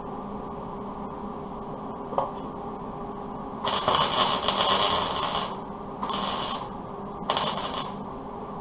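Welding steel patch panels into a truck fender's wheel opening: three short bursts of welding, the first about two seconds long and the next two about half a second each, over a steady hum.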